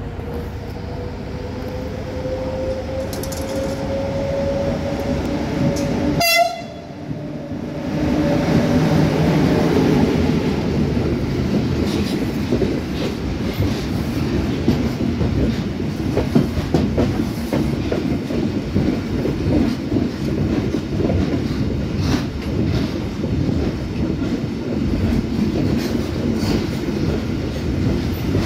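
Container train on the move: for about six seconds a steady tone rises slightly in pitch, then after a brief break the wagons clatter over the rails with rapid, continuous knocks for the rest.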